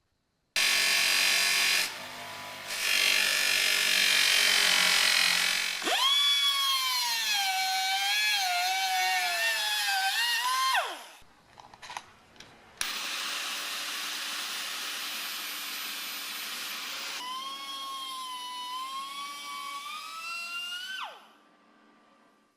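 Electric power tool working on metal parts in two runs: a hissing, scraping stretch, then a motor whine that rises and wavers with load and winds down, and a second run whose whine climbs and stops near the end.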